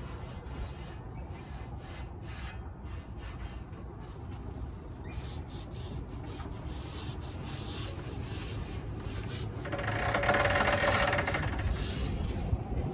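Hand scraping and rubbing on a tractor wheel rim and tyre bead in short, uneven strokes, with a louder stretch of scraping about ten seconds in.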